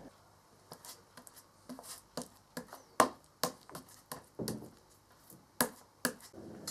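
Scattered light knocks, taps and clicks at an uneven pace, from hands handling things.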